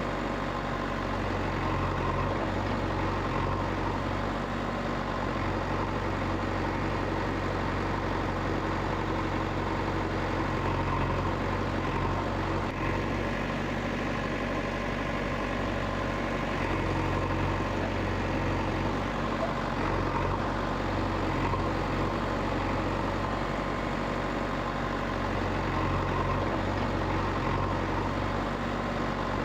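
An engine idling steadily, with a low, even hum that does not change.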